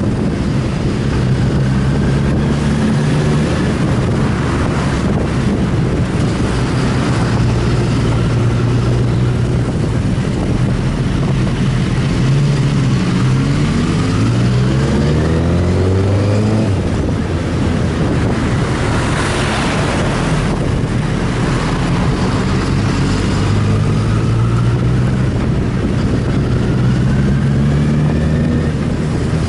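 Inline-four sport motorcycle engine under way, with heavy wind rush. The engine holds steady speeds, climbs in pitch through a long acceleration around the middle, then drops off abruptly.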